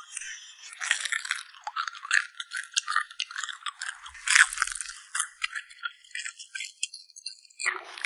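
Crunchy food being bitten and chewed close to the microphone, a quick irregular run of crackling crunches.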